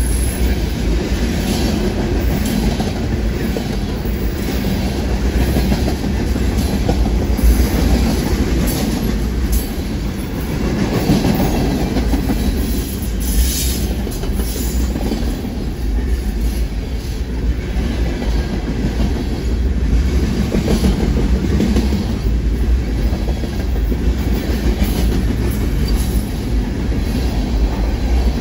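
Freight train cars rolling steadily past: a continuous rumble of steel wheels on the rails with a clickety-clack of wheels over the rail joints and, now and then, a sharper click or clank.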